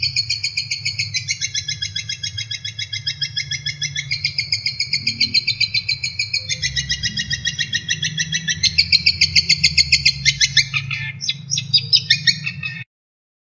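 Songbird singing rapid-fire trills, the fast 'tembakan' phrases of a masteran training track: each run is a quick string of high, sharp notes, switching to a new trill every second or two. The song grows choppier near the end, then cuts off abruptly, with a low hum underneath until the cut.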